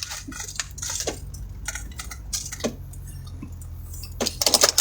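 Scattered clicks, light clinks and rattles of small objects being handled inside a vehicle, with a quick flurry of clicks near the end, over a steady low hum.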